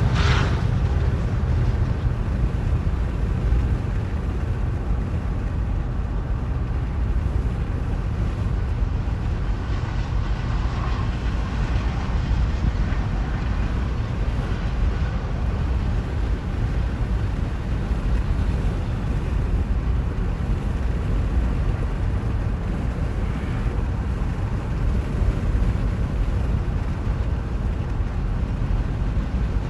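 A train in motion, giving a steady low rumble.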